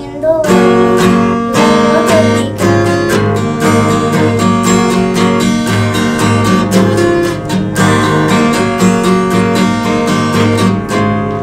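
Acoustic guitar music, strummed and picked in a steady rhythm.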